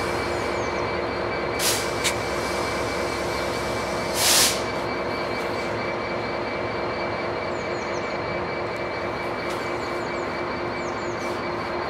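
A slow-moving freight train led by cable-drum wagons, with a Class 66 diesel locomotive's two-stroke V12 engine running in a steady drone and a constant high whine. A short, loud hiss comes about four seconds in, with two smaller ones before it.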